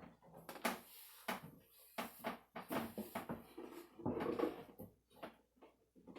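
Irregular knocks, bumps and clatter of objects being handled and set down, with a longer rattling clatter about four seconds in, like wood and hard things being moved around a workbench.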